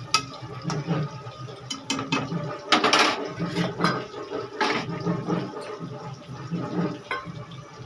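Potatoes sizzling in hot oil in a kadhai, a steady crackling hiss, with a few sharp clinks of utensils, the loudest about three seconds in.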